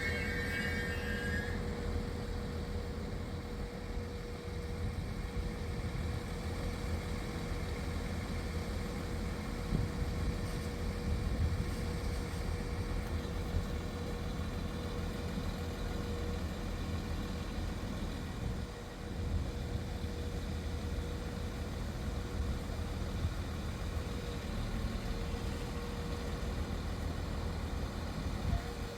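Diesel train engine running steadily: a low rumble with a constant hum.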